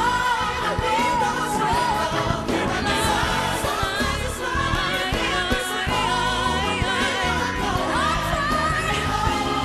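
Live gospel performance: a female lead vocalist singing melismatic runs over band and backing choir, holding a long high note near the end.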